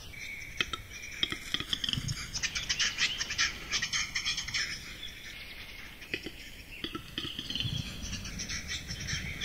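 Small birds chirping and singing, over a steady low rumble.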